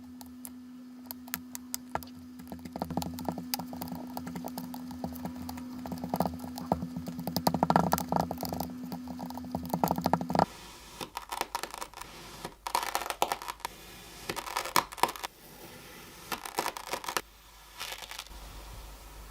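Kinetic sand being handled close up: dense runs of soft crackles and crunches as it crumbles. A steady low hum under the first half cuts off abruptly about halfway through.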